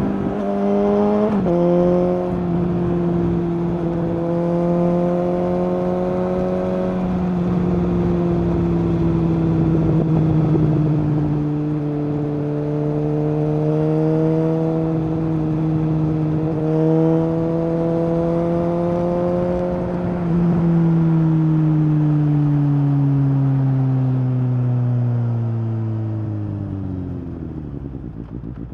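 2019 Suzuki GSX-S750 inline-four running through an open Yoshimura SQ11 exhaust with the dB killer removed and the catalytic converter deleted, holding a steady engine note with small rises and dips in pitch. About twenty seconds in the revs fall away in one long drop as the bike rolls off and slows, the note fading.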